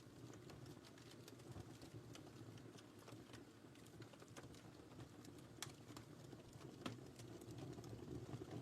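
Wood fire crackling quietly in a fireplace: a low steady rumble of burning with scattered irregular pops and snaps.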